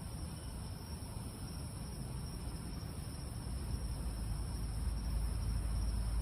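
Steady night chorus of crickets, a constant high trill. A low rumble swells in under it from about halfway through.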